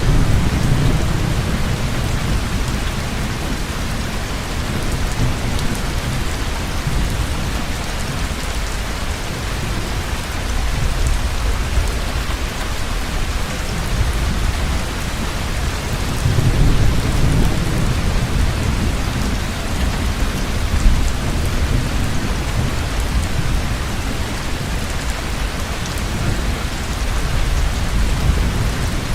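Heavy rain pouring steadily, with deep rolls of thunder rumbling near the start and again a little past halfway through.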